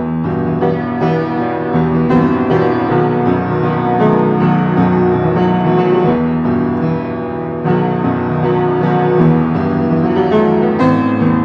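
Piano playing the instrumental introduction to a hymn, chords struck in a steady flow, with no singing yet.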